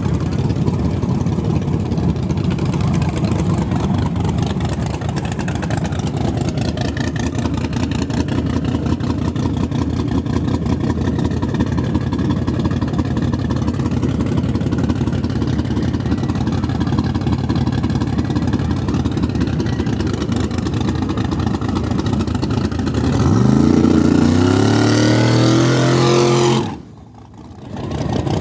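Drag race car engines running steadily, then a car accelerates hard about 23 seconds in, its engine note climbing sharply and holding high before cutting off abruptly near the end.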